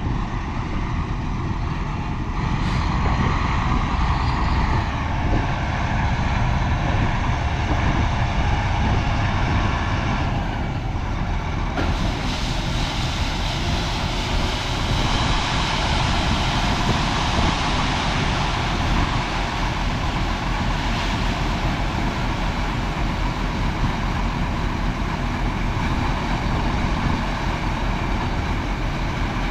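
Diesel harvest machinery running steadily: a tractor-pulled grain cart unloading corn into a truck.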